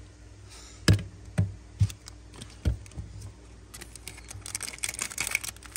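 Handling of a metal Zippo lighter: four separate knocks in the first three seconds, then from about four seconds in a dense crinkling rustle.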